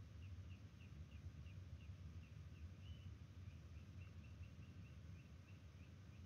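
Faint, quick series of short high chirps, about three a second, from a bird calling in the background, over a low steady hum.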